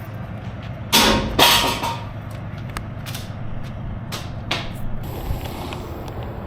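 Heavy truck engine idling steadily, with a loud noisy burst about a second in and a few shorter sharp noises around four seconds.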